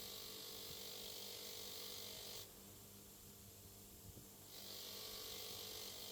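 Two steady bursts of high hiss from a spray nozzle: the first lasts about two and a half seconds, then after a two-second gap a second lasts about a second and a half. A faint steady hum runs underneath.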